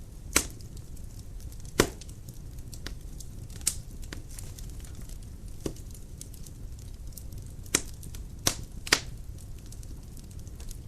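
Dry firewood burning in a fireplace: a steady low rumble of flame with irregular sharp crackles and pops, a few of them much louder than the rest.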